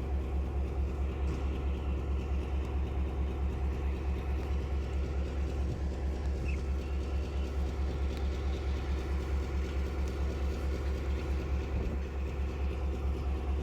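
An engine running steadily, with a strong low hum and an even, rhythmic throb.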